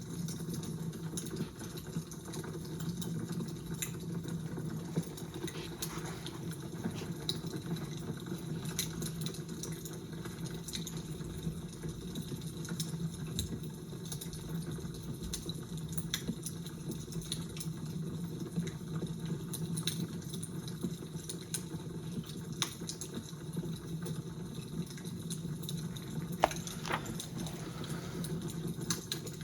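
Fire crackling: a steady low rush under frequent small, sharp pops and snaps, with one louder pop a few seconds before the end.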